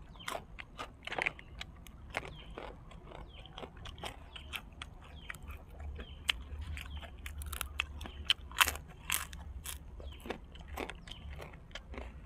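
A person chewing fried dried squid close to the microphone: many short, uneven crunches and bites.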